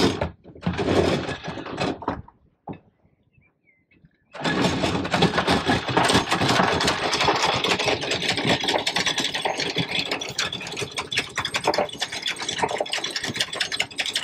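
A small motor started with two short tries, then catching about four seconds in and running steadily with a fast, rattling pulse.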